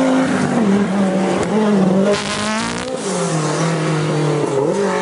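Rally car engine running hard, its pitch rising and falling with throttle and gear changes, with a brief rush of noise about two seconds in.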